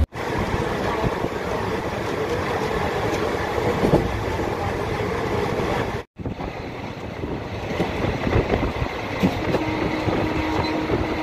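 Passenger train running at speed, heard from inside a coach through an open window: a steady rumble and clatter of wheels on rails mixed with rushing wind. The sound cuts out for a moment about six seconds in and then carries on.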